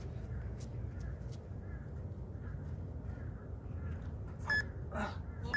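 Short electronic beeps, two about a second apart near the end, over a steady low room hum: an interval timer's countdown signalling the next set of pull-ups.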